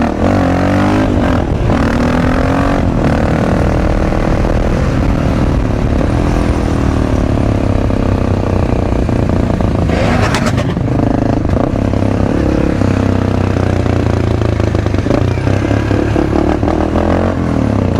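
Supermoto motorcycle engine running under way, its pitch rising and falling as the throttle opens and closes and the gears change. A short sharp burst of noise comes about ten seconds in.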